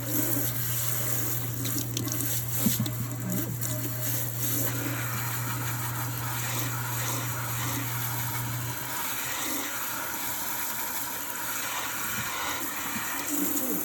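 Kitchen tap running steadily into a sink. A low steady hum runs beneath the water and cuts off about nine seconds in.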